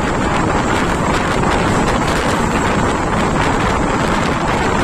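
Steady rush of wind over the microphone together with the running noise of a moving passenger train.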